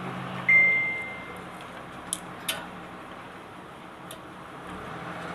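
Small metal hand-tool work on a nut: a sharp metallic clink that rings briefly about half a second in, then three light ticks, over a low steady hum.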